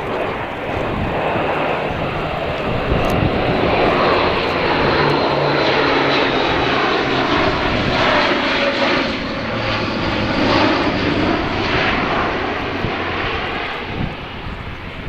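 Airbus A400M's four Europrop TP400 turboprop engines running loud and steady as the aircraft flies its display, easing off slightly near the end.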